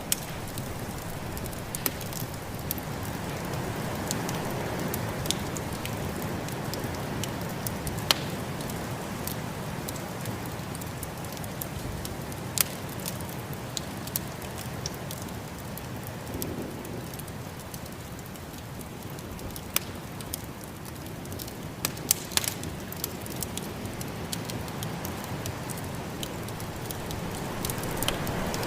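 Wood fire crackling, with irregular sharp pops, over the steady rushing noise of a snowstorm that swells and eases.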